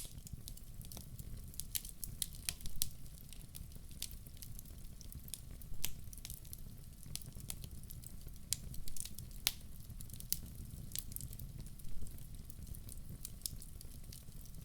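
Wood fire in an outdoor fireplace crackling, with sharp pops at irregular intervals over a steady low rumble of the flames.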